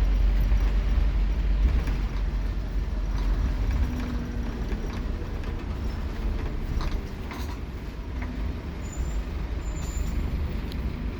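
Scania K230UB Omnilink bus heard from on board: a steady low engine and road rumble that eases off about two seconds in and again near seven seconds, with a few short rattles and knocks.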